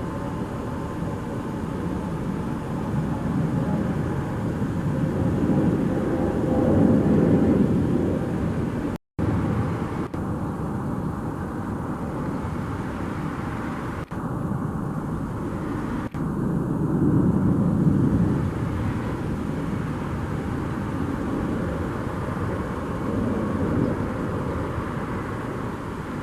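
Jet airliner engine rumble, a steady low noise that swells twice and briefly cuts out about nine seconds in.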